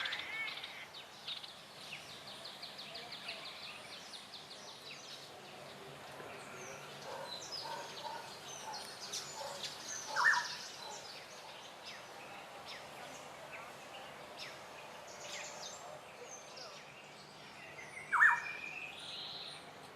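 Several wild birds calling and chirping: a fast run of evenly repeated high notes in the first few seconds, scattered chirps throughout, and two louder short calls, one about halfway through and one near the end.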